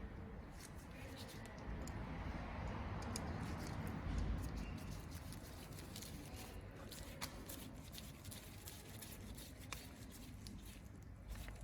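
Faint handling noises: a soft rustle with scattered light clicks and taps of hands working small parts.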